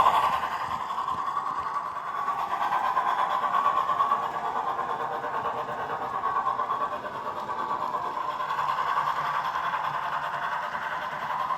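O gauge model steam locomotive, a Dapol 14xx 0-4-2T converted to 3-rail with a Blunami sound decoder, running along the track with its train: a steady running rattle and hum that swells and fades a few times.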